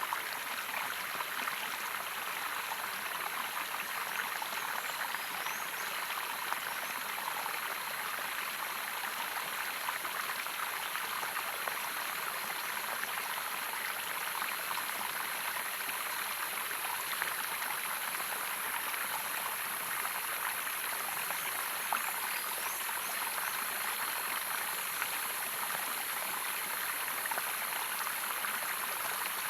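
Running water of a small waterfall, a steady even rush with no breaks, with a faint steady high-pitched tone over it.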